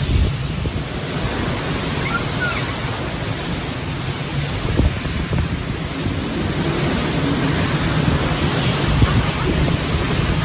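Hurricane wind and rain: a loud, steady rush of noise with wind buffeting the microphone, gusting up a little near the end.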